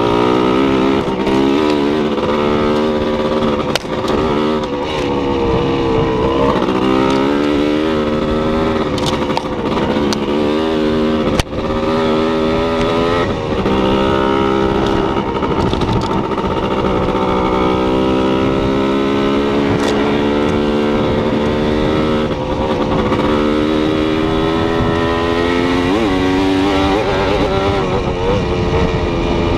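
A vehicle engine running without a break, its pitch rising and falling as the revs change.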